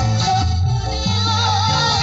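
Music played loud through a large sound system under test: a heavy stepping bass line under a wavering lead melody.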